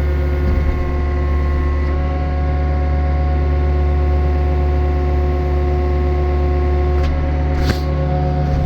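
Yanmar four-cylinder diesel engine of a New Holland E60C mini excavator running steadily, with a click about seven seconds in and a short sharp sound just after.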